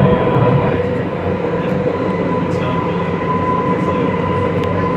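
R211 subway car running steadily at speed, heard from inside the car: a constant rumble of wheels on the rails with a steady high whine over it.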